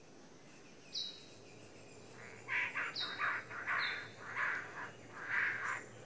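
Bird calls: three short whistled notes that drop in pitch, and over the second half a run of about six harsh, rasping calls in quick succession.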